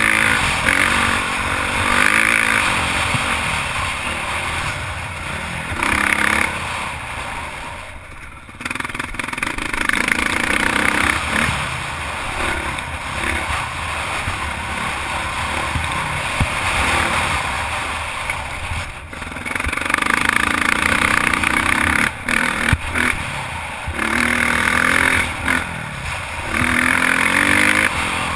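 Honda CRF450 four-stroke single-cylinder motocross bike being ridden on a track, heard close up from an on-board GoPro. The engine note climbs and drops over and over as the throttle is opened and shut, with short throttle-offs about a third of the way in and again about three-quarters through.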